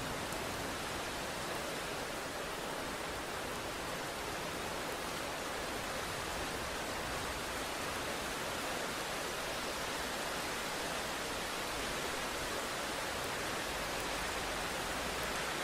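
Steady rain falling, an even hiss without breaks or thunder.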